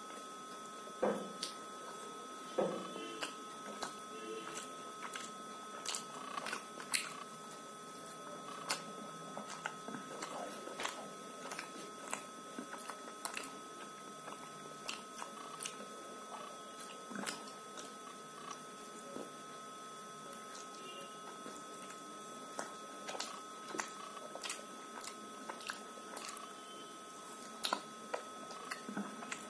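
Close-up chewing of soft, syrup-soaked gulab jamun (kala jamun), with wet, squishy mouth sounds and irregular small clicks of lips and tongue. A faint steady tone runs underneath.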